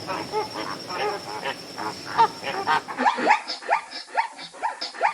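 Short animal calls repeating every few tenths of a second; about three seconds in, a cut to a different animal giving sharp, falling chirps about three times a second.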